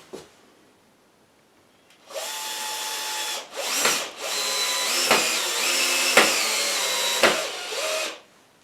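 Power drill-driver on its low speed setting driving a Phillips-head screw into a wall plug. It makes a short run about two seconds in, then after a brief pause a longer run with the motor pitch stepping up and down under the trigger, stopping shortly before the end.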